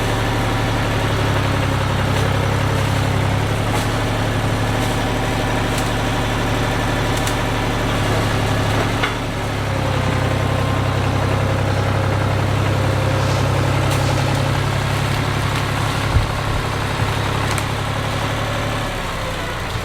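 An engine running steadily, with a brief dip in level about nine seconds in and two short knocks near the end.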